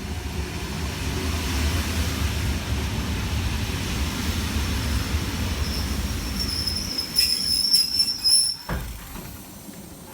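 Passenger train rumbling along the rails. From about the middle, a high, steady wheel or brake squeal rises, with several metallic clanks about 7 to 8 seconds in. After that the sound drops away, as a train does when braking to a stop.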